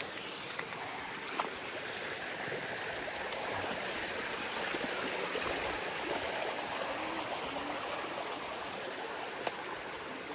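Running water of a small stream: a steady rush that grows a little louder midway, with a few faint ticks.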